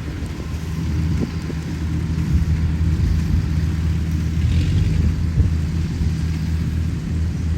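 Kubota 105 combine harvester running steadily, a low engine drone.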